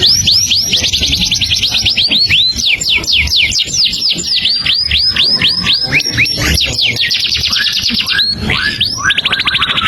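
Songbird singing a continuous song: a fast series of whistled notes, each sweeping down in pitch, about five a second, breaking into rapid trills about seven seconds in and again near the end.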